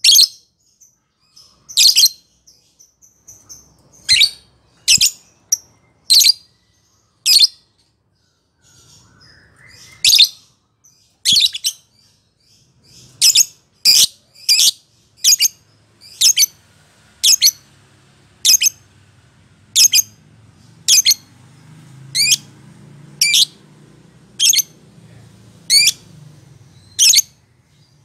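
Lovebird giving short, high-pitched chirps over and over, irregular at first with a short gap about eight seconds in, then settling to roughly one chirp a second.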